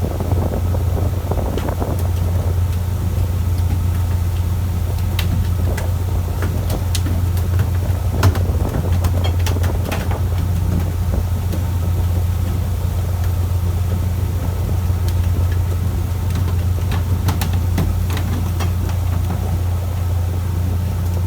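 Fishing boat's engine running with a steady low drone, with scattered light clicks and knocks over it.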